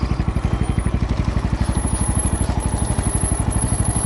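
Single-cylinder trail motorcycle engine running steadily at low revs, a rapid, even putting of about fifteen beats a second.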